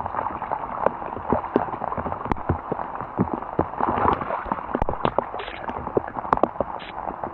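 Heavy rain falling, a steady hiss with many irregular sharp ticks and knocks close to the microphone.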